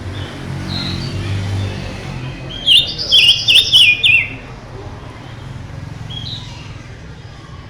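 Songbird singing one loud phrase of quick, zigzagging whistled notes about two and a half seconds in, lasting about a second and a half, with fainter single chirps before and after. A steady low hum runs underneath.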